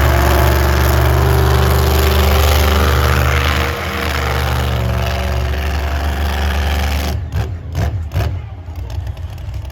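Monster truck engine running loud and steady at a constant pitch, easing off about seven seconds in.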